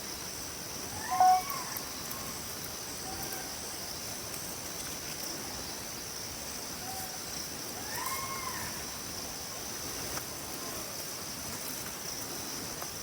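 A wild animal's short, arched call, heard twice: loudly about a second in and again about eight seconds in. Underneath runs a steady high buzz of insects.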